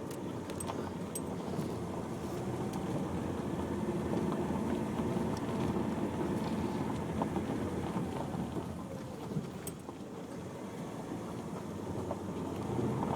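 Cabin noise of a Nissan X-Trail driving a rough lane: a steady low rumble of tyres and engine, with a few faint knocks and rattles. It eases off about ten seconds in and builds again near the end.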